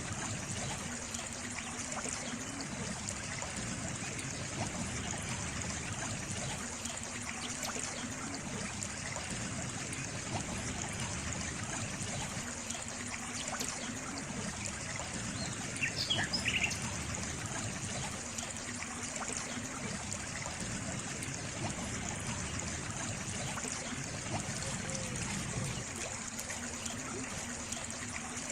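Steady trickling stream water, an even continuous rush with a lower part that swells about every six seconds. A brief high chirp sounds about halfway through.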